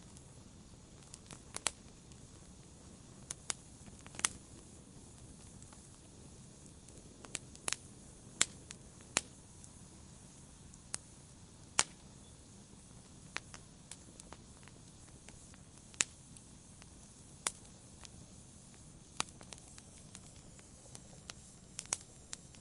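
Fireplace fire crackling: irregular sharp pops and snaps, a few louder than the rest, over a low steady hiss.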